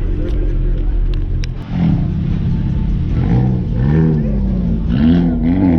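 Car engines idling, with one engine's pitch rising and falling twice in the second half, like short rev blips.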